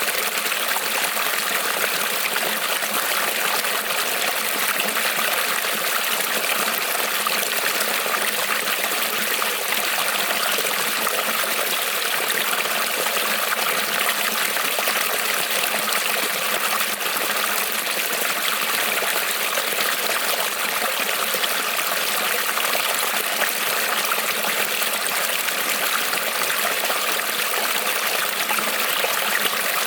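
Creek water rippling and trickling over stones, a steady, even rush with no breaks.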